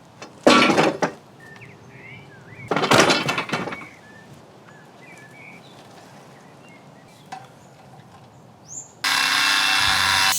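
Two loud blows on old timber, about half a second and about three seconds in, as the rotten hardwood is knocked off the steel cart wheels, with small bird chirps between. Near the end a power tool starts and runs steadily.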